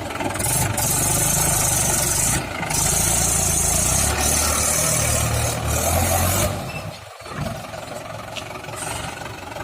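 Diesel tractor engine running steadily, with a hiss laid over it for most of the first six seconds. The sound drops off abruptly about six and a half seconds in and carries on more quietly.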